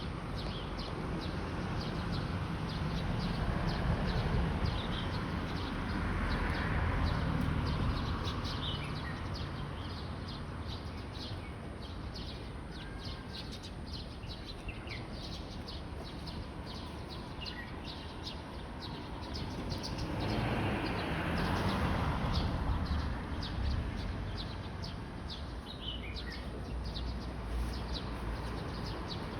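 Small birds chirping in quick short notes throughout, over a steady outdoor background. A broad rushing noise swells up twice, early on and again about two-thirds of the way in.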